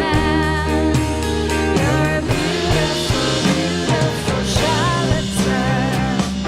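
Live rock band playing: electric guitars, bass and drum kit, with a woman's sung vocal wavering over the sustained guitar chords.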